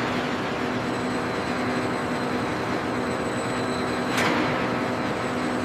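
Steady machinery hum and hiss of a factory floor, with one sharp metallic knock about four seconds in.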